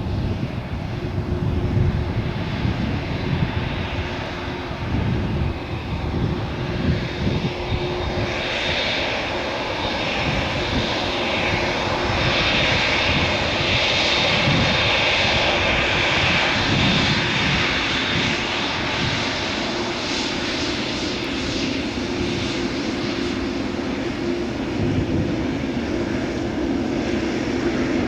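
Boeing 787-10 jet engines at takeoff power, a loud steady jet noise. It starts as a low rumble, and a high whine joins about eight seconds in as the aircraft comes closer.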